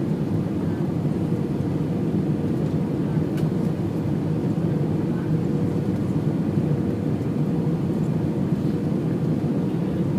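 Steady rumble of a jet airliner heard from inside the passenger cabin: engine and airflow noise with a faint constant hum in it.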